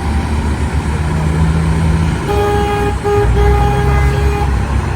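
Diesel engines of big-rig trucks rumbling as they roll past. About halfway through, a truck's air horn blows a long blast with a short break, for roughly two seconds.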